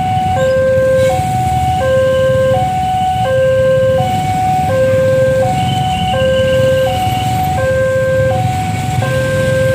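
Railway level-crossing warning alarm from a Nippon Signal crossing unit sounding an alternating two-tone signal, low tone then high tone, about once a second: the warning that a train is approaching. A steady low rumble runs underneath.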